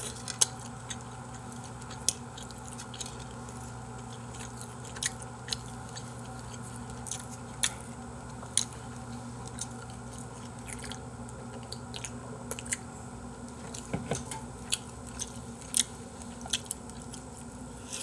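Close-miked chewing and mouth sounds of a person eating glazed chicken-heart and chicken skewers: wet smacks and sharp clicks at irregular intervals, over a steady low hum.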